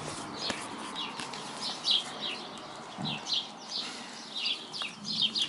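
Small birds chirping over and over, short high chirps in quick clusters. A few sharp clicks and rustles come from the phone being handled and moved.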